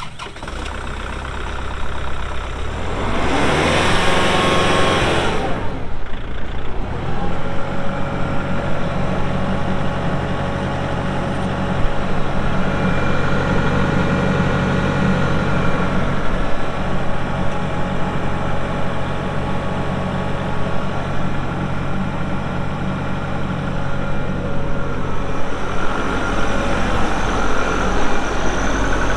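Kubota MX6000 tractor's four-cylinder diesel engine starting up: it builds for a few seconds, is loudest as it catches about four seconds in, then settles into a steady idle.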